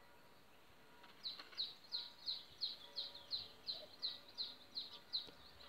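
A small bird calling: a long run of short chirps, each falling slightly in pitch, repeated evenly about three times a second from about a second in.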